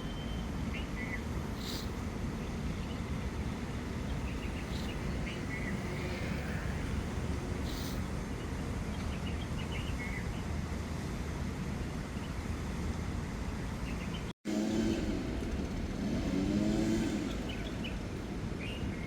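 Outdoor ambience: a steady rumble of road traffic with scattered small bird chirps. The sound cuts out for an instant about two-thirds of the way through.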